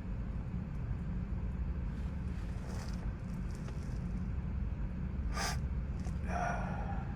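A steady low rumble, with a single sharp click about five and a half seconds in and a brief rustle near the end.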